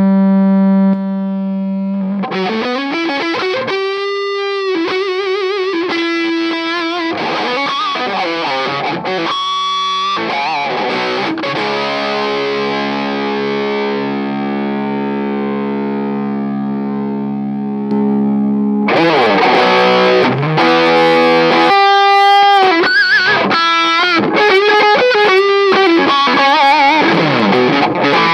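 Distorted electric guitar played through a pocket-sized hybrid tube power amp (an EF95/6J1 mini pentode with a class D output stage) into a guitar speaker cabinet: lead phrases with bent and vibrato notes and a chord left ringing for several seconds in the middle, getting louder again after that.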